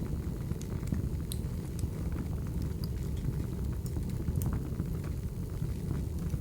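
Crackling wood fire: a steady low rumble with scattered sharp crackles and pops at irregular moments.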